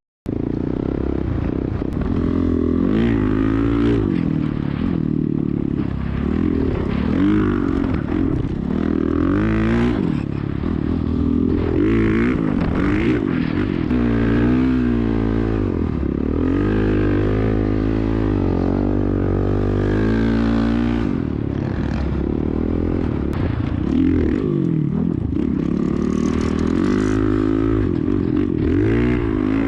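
Dirt bike engine revving hard and continuously, its pitch climbing and falling again and again as the throttle is worked through the gears in sand.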